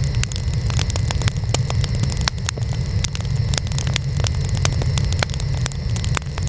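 Wood fire burning: a steady low rumble of flames under frequent sharp crackles and pops at irregular intervals.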